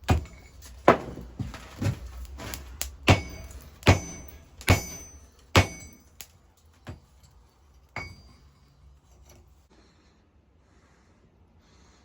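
A run of sharp, ringing hammer blows, roughly one a second, that thin out and stop about eight seconds in.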